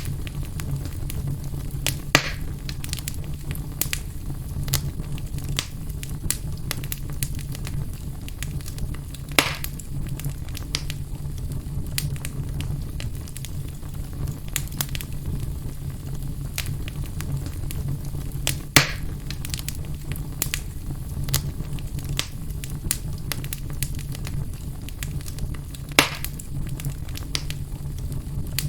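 Wood fire burning in a fireplace: a steady run of small crackles with four louder pops spread through, over a steady low hum.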